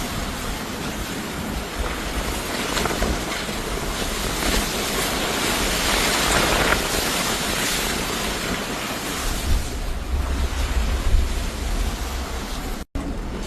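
Storm noise of wind and rushing floodwater, a steady loud roar, with wind buffeting the microphone as a heavy low rumble in the last few seconds.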